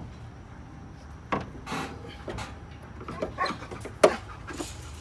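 Several sharp knocks and clunks of hands working on a car, the loudest about four seconds in, over a steady low hum.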